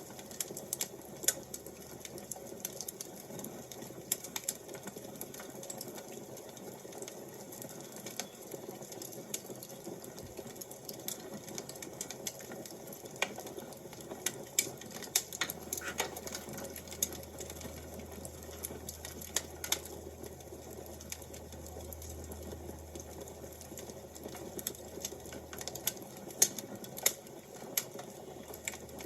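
Fire crackling: irregular snaps and pops, some much louder than others, over a soft steady hiss.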